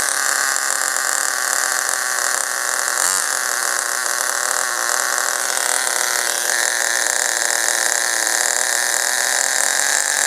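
Vertex .18 two-stroke nitro glow engine of an RC buggy idling steadily at a high pitch. Its low-speed needle has just been leaned an eighth of a turn, and the idle is being checked by the fuel-line pinch test.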